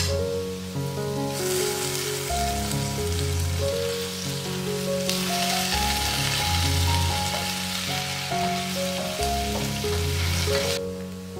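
Sliced potatoes sizzling as they fry in a pan, turned over with a wooden spatula. The sizzle starts about a second in, grows louder about halfway through and cuts off suddenly near the end, with background music underneath.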